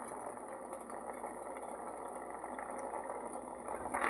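Pot of water with tea powder, ground spices and ginger at a steady boil: an even bubbling.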